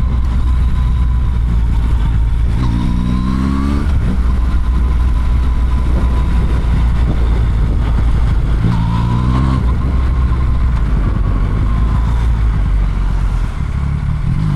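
Motorcycle engine running under way, heard from the rider's seat over a steady rush of road noise. It revs up twice, about three seconds in and again about nine seconds in, and starts rising again near the end.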